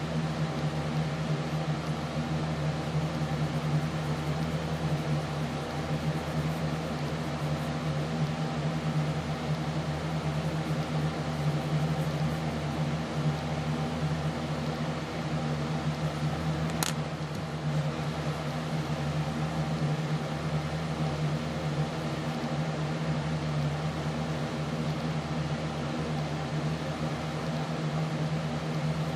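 A steady machine hum with a strong low tone, like a fan or appliance running, and a single sharp click about seventeen seconds in.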